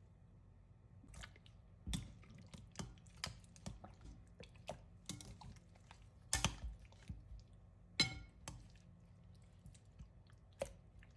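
Raw chicken thighs and drumsticks being mixed into barbecue sauce: soft, irregular wet squelching and clicking, with a couple of louder knocks about six and eight seconds in.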